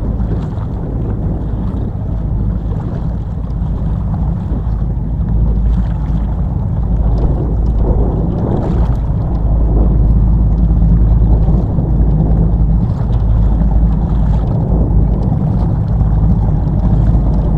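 Steady low rumble of wind buffeting the microphone aboard a small boat on the water, getting a little louder about halfway through.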